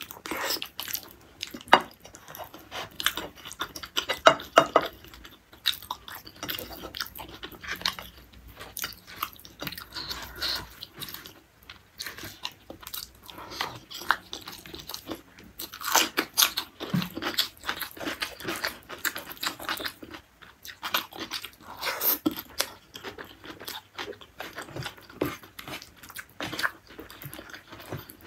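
Close-miked eating: a person chewing and crunching mouthfuls of beef tendon curry and greens dipped in sambal, with irregular bites and crunches throughout.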